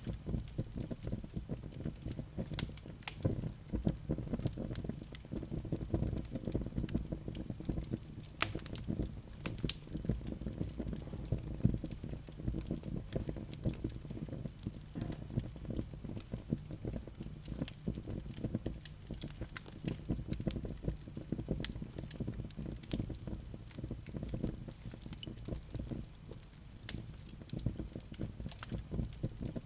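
Wood fire burning in a fireplace: a steady low rumble from the flames, with frequent sharp, irregular crackles and pops from the burning wood.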